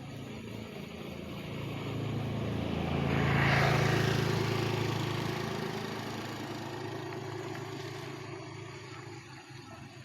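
A motor vehicle drives past. Its engine sound swells to a peak about three and a half seconds in, drops in pitch as it passes, then fades away.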